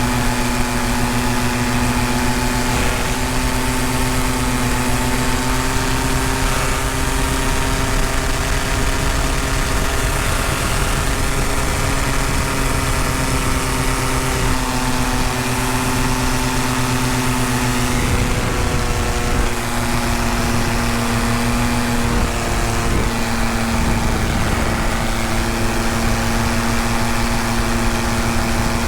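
Tandem paramotor engine and propeller running steadily in flight, a constant drone with a brief wobble in pitch about two-thirds of the way through.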